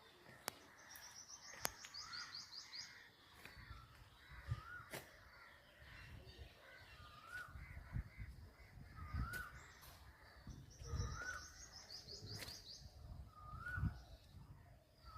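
Birds calling: one repeats a short rising-and-falling call about every second and a half, while another gives a rapid series of high notes twice, near the start and again about two-thirds through. A few sharp clicks and low rumbles sit underneath.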